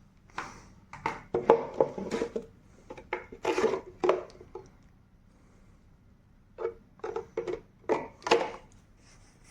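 A run of short knocks, clatters and rubs, like hard objects being handled, in two clusters with a quiet pause of about two seconds between them.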